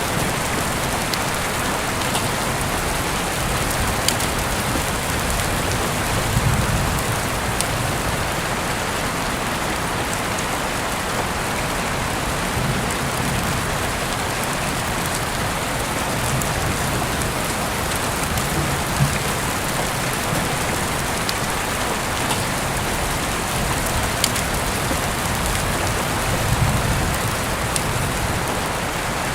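Steady rain falling, with scattered light ticks of drops and a few soft low swells of rumble.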